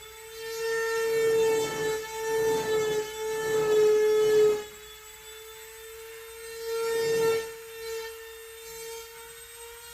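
A hand tool scraping through packed molding sand in several strokes over the first half, with one more stroke a little past the middle, as a gate is cut back into a sand mold. A steady pitched machine hum runs underneath.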